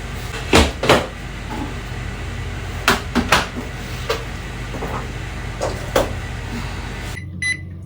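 Kitchen utensils knocking: a scattered series of sharp clacks, like a measuring cup, pot and lid being handled while rice and water are put in to cook, over a steady low background hum that stops near the end.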